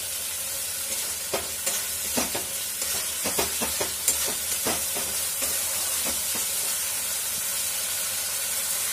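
Spiced masala paste with raisins sizzling as it fries in a metal pan. A spatula stirs and scrapes through it, giving a run of knocks and scrapes in the first half, then the sizzle goes on steadily.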